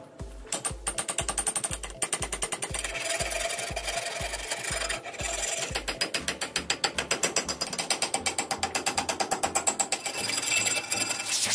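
Rapid, even scraping strokes of a hand tool working a rusty steel axe head, several strokes a second, with a brief pause about five seconds in.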